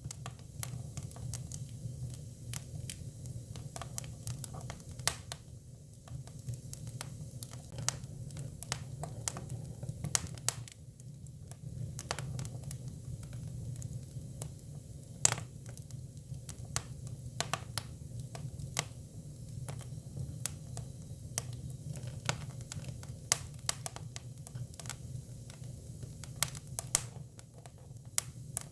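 Hinoki cypress firewood burning: a steady low rumble of flame with many irregular sharp crackles and pops scattered throughout.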